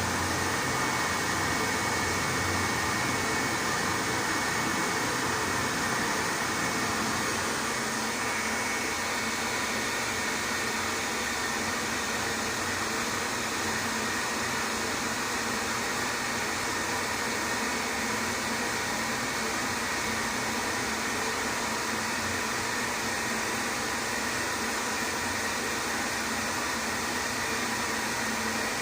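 1986 Tew TCO 1500 ES push-button hand dryer running: a steady rush of blown air with a faint high whine from the fan motor.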